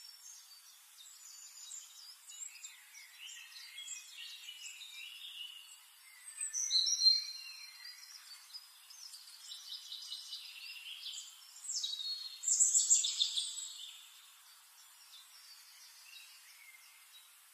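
Birds chirping and singing, a mix of short high-pitched chirps and trills, louder for a moment about seven seconds in and again around thirteen seconds in.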